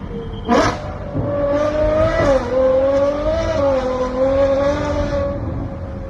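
Ferrari 812 Superfast's V12 through a Novitec exhaust: a sharp rev blip about half a second in, then the revs held high and wavering for about four seconds before dropping back near the end.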